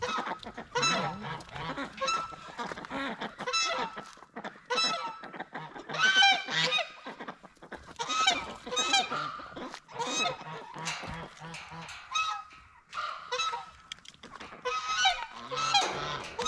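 A flock of geese honking, many short calls coming one after another and overlapping, with a brief lull about twelve seconds in.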